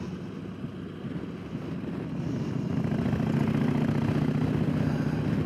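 Motorcycle engine running while riding, with wind rushing over the bike. The engine note grows louder about two seconds in, then holds steady.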